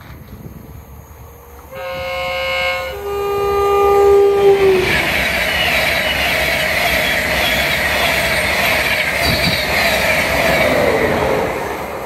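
InterCity 225 express train (Class 91 electric set with Mark 4 coaches) sounding its two-tone horn as it approaches: a higher note, then a longer lower one that sags in pitch at its end. It then passes close at speed with loud, steady wheel-and-rail and wind noise, fading near the end.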